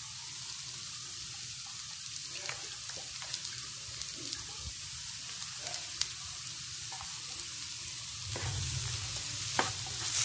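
Potato sticks frying in coconut oil in a nonstick pan, a steady sizzle with small scattered crackles. From about eight seconds in, a wooden spatula starts tossing and scraping the potatoes, and the sound grows louder with sharper clicks.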